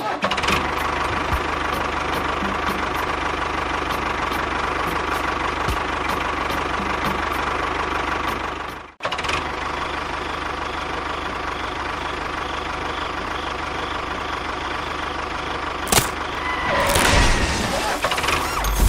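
A small engine running steadily, with a brief break about nine seconds in and a sharp knock near the end.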